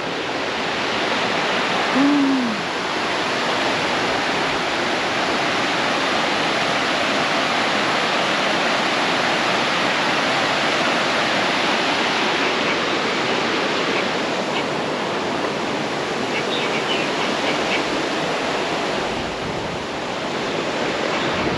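Cam Ly Waterfall's falling water: a steady rushing hiss, with a few short faint high chirps around sixteen seconds in.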